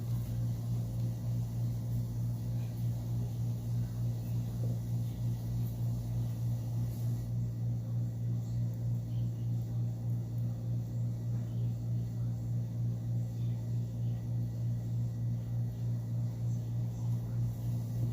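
A steady low machine hum that pulses evenly a few times a second.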